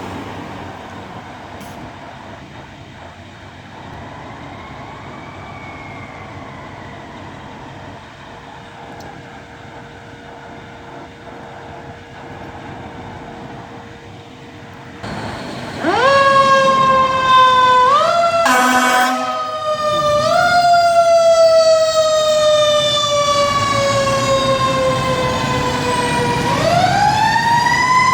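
Fire truck siren: after quiet road noise, the siren comes in loud about halfway through, rising in quick sweeps, then falling in one long slow wail before winding up again near the end. A brief horn blast cuts in between the sweeps.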